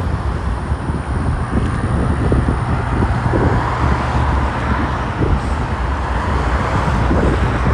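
Wind buffeting the camera microphone as a loud, uneven low rumble, over a hiss of road traffic that swells in the middle.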